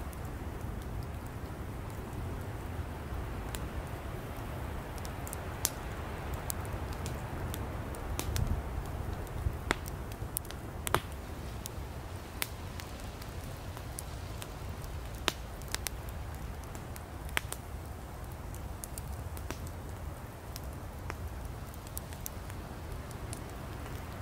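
Firewood burning in an open campfire: a steady low rumble of flame with irregular crackles and sharp pops, a few louder snaps scattered through.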